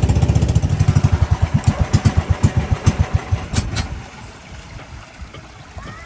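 A boat's engine running with a fast, even beat, then slowing over about three seconds, its beats spreading out until it stops about four seconds in.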